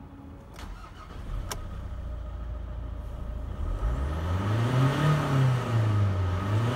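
Mazda RF7J 2.0-litre four-cylinder turbodiesel running, with two sharp clicks in the first couple of seconds. From about halfway through it is revved up and let back down twice, the pitch rising and falling each time.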